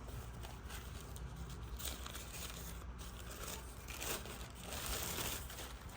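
Thin 2-ply paper napkin crinkling and rustling as its layers are peeled apart by hand, in irregular bursts that grow louder a few seconds in.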